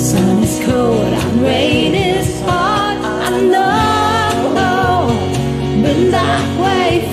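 A voice singing a pop-rock melody with vibrato over a backing track with a steady beat.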